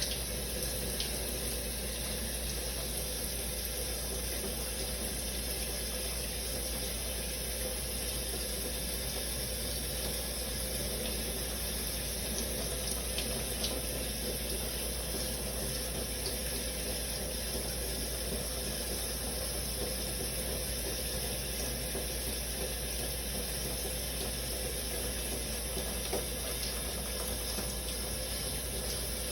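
Shower running steadily: a continuous hiss of water spray.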